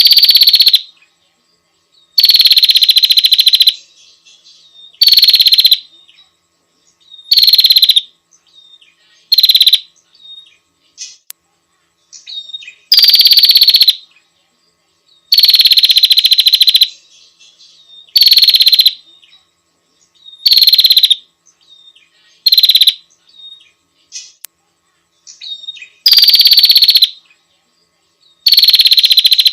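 Female prinia (prenjak) calling to a male: loud, high, buzzy calls about a second long, each opening with a short downward slide, repeated every two to three seconds with faint softer chirps between.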